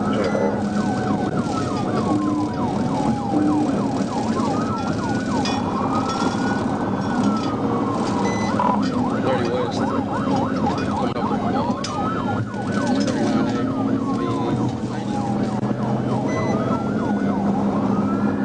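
Police car siren in a pursuit: a slow wail rising and falling about every three seconds, overlaid by a faster yelp sweeping up and down several times a second, over steady engine and road noise.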